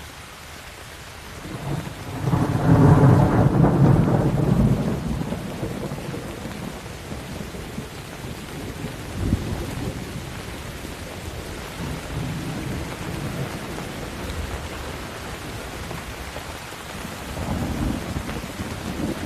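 Steady rain falling, with a loud rolling thunderclap that builds about two seconds in and fades over a few seconds, followed by fainter distant rumbles of thunder later on.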